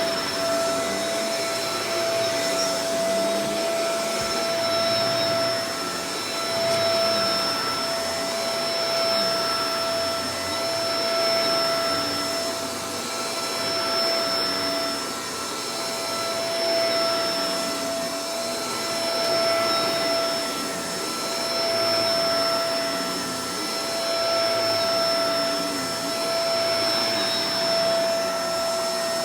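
Shark Professional Powered Lift-Away DLX (NV586) upright vacuum cleaner running, with a steady high motor whine over the rush of airflow. The sound swells and eases every two to three seconds.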